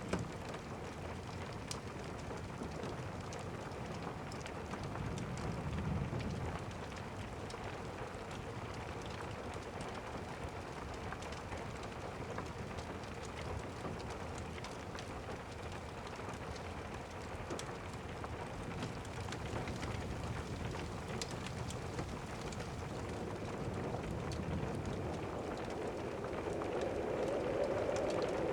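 Steady rain falling, with the scattered crackle of a fireplace fire. A low rumble of distant thunder swells about six seconds in, and the sound grows a little louder near the end.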